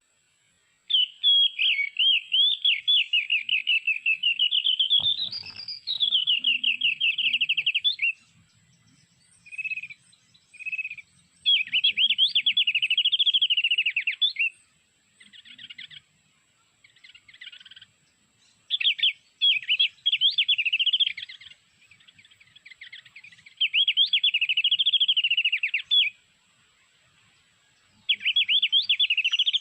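White-eye (pleci) song: long, rapid warbling phrases that come in bouts of a few seconds with short gaps between. The song is an MP3 lure recording played to draw wild white-eyes to a birdlime trap.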